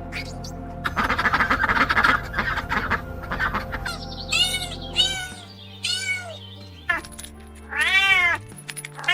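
A domestic cat meowing about four times, each meow rising then falling in pitch, the third the loudest, over steady background music. A rough, noisy stretch comes before the first meow.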